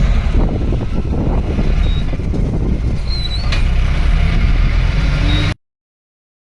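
Safari vehicle's engine running with a steady low rumble, a few short high chirps over it; the sound cuts off abruptly about five and a half seconds in.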